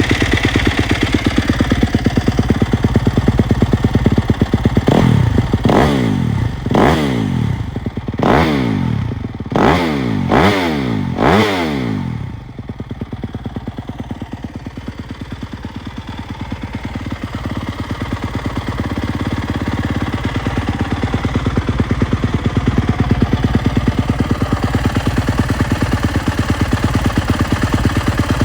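Yamaha YZ250F's four-stroke single-cylinder engine idling, then revved with about six quick throttle blips, each rising and falling back, before it settles into a steady idle again.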